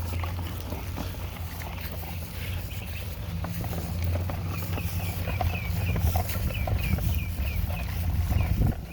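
Steady low drone of a child's ride-on toy dump truck's electric motor and gearbox, with a run of short, high chirps repeating about two or three times a second from about halfway through.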